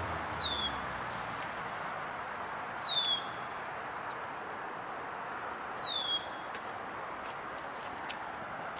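A bird calling, a short high note that sweeps steeply down, repeated about every three seconds (four calls), over a steady rush of background noise.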